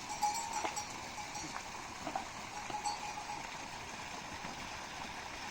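Metal animal bells clinking irregularly, a few short rings in the first second and more near the middle, over a steady background hiss.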